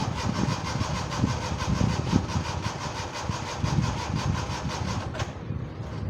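Suzuki Mehran's starter motor cranking the engine in a cold start on a low battery, with a steady, rapid pulsing rhythm. The cranking stops abruptly about five seconds in, leaving a lower rumble.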